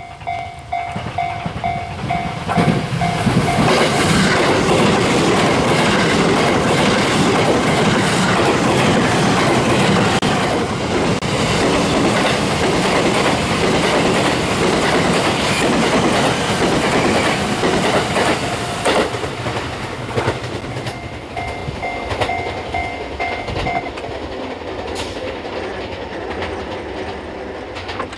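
Japanese level-crossing alarm bell dinging rapidly while a JR West 287 series electric train passes over the crossing, its wheels rumbling and clicking over the rail joints. The train noise drowns the bell, then fades; the bell is heard again for a few seconds and stops as the crossing clears.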